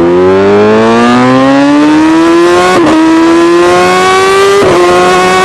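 Motor vehicle engine accelerating hard, its pitch climbing steadily and dropping briefly twice at gear changes.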